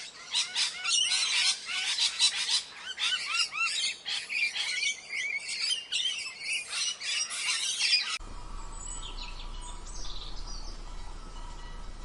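Many small birds chirping at once, a dense run of quick, repeated high notes, for about eight seconds. Then the sound cuts off abruptly to a quieter background of low hum and faint noise with only a few faint calls.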